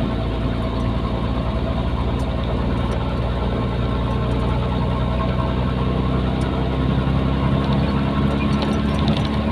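Nissan Diesel container truck's diesel engine running steadily, its pitch rising a little in the second half as it picks up speed.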